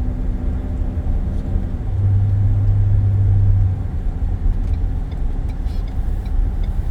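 Car driving, heard from inside the cabin: a steady low road and engine rumble, with a stronger low hum for a couple of seconds in the middle.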